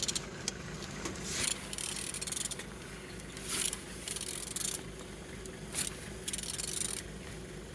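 Mercedes-Benz M271 four-cylinder engine being turned over by hand with a tool on the crankshaft: about six short, noisy ratcheting strokes with a few clicks, over a faint steady hum. The engine turns freely.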